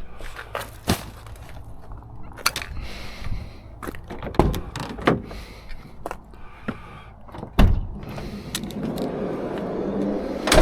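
Rummaging through packaging in a waste bin: rustling plastic and cardboard with several sharp knocks and thumps. The two loudest come about three quarters of the way in and at the very end.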